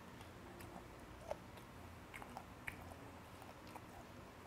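A man chewing a mouthful of chewy seasoned fermented skate salad (hongeo muchim), close to the microphone. The chewing is faint: irregular small wet clicks and smacks of the mouth.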